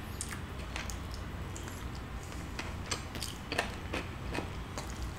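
A person chewing Afghani chicken taken off the bone by hand, with irregular soft mouth clicks and smacks, a few a little louder than the rest.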